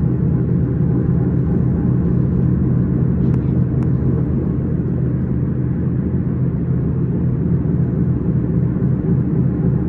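Steady low rumble of an S-Bahn train running along the line, with two faint clicks a little over three seconds in.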